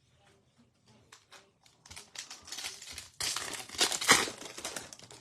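Foil wrapper of a trading-card pack being torn open and crinkled. It starts with a few light clicks and builds into a dense crackle about two seconds in, loudest in the middle and easing near the end.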